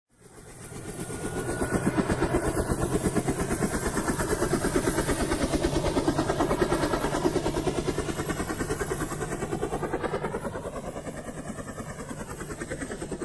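A passing vehicle with a fast, even pulsing that fades in, holds, then begins to die away near the end.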